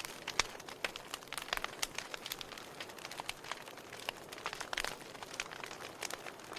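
Wood fire burning, with irregular sharp crackles and pops over a soft steady hiss.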